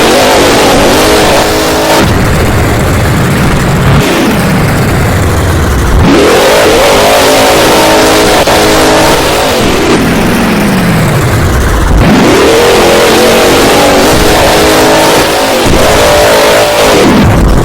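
Overdriven monster truck's supercharged V8 engine revving hard, its pitch swelling up and dropping back again and again, every two to four seconds.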